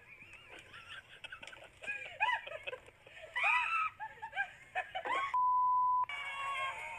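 Excited voices calling out in rising and falling exclamations, cut about five and a half seconds in by a single steady censor bleep lasting under a second, with the other audio muted beneath it.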